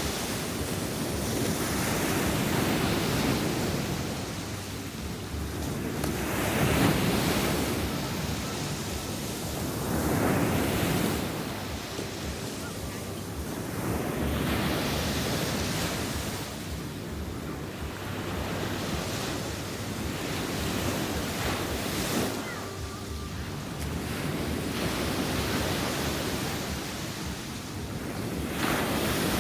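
Sea waves breaking and washing up the shore, the surf swelling and falling back every few seconds, with some wind on the microphone.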